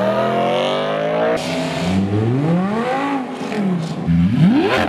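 Car engine revving hard: its pitch climbs, drops off abruptly, then rises and falls twice more before a sharp climb near the end.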